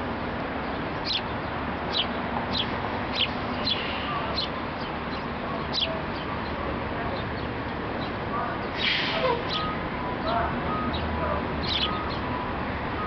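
Small birds chirping: short, high, sharp chirps repeated every half second to a second over steady outdoor background noise, with a louder, longer call about nine seconds in.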